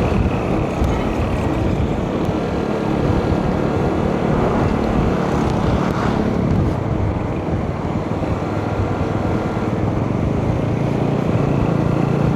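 Motorcycle engine running at cruising speed along a road, mixed with steady wind rush on the microphone.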